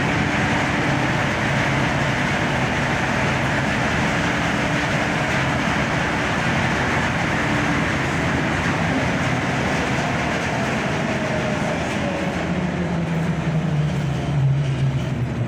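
Steady mechanical rumble with a rushing noise, the running drone of a tour boat's engine. A low hum in it grows stronger near the end.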